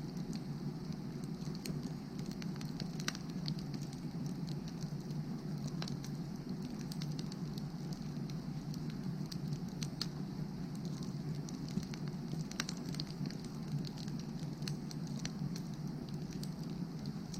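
Firewood burning in an open fire, with irregular small crackles and pops over a steady low rush.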